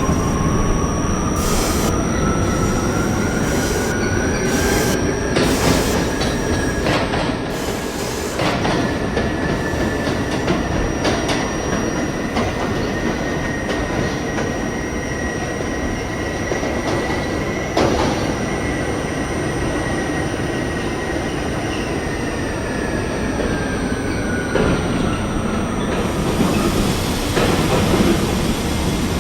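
R68A subway car running between stations. Its drive gives a whine that rises in pitch as the train picks up speed, holds steady, then falls near the end as it slows. Over the rumble of the car, the wheels clack sharply over rail joints, most often in the first third.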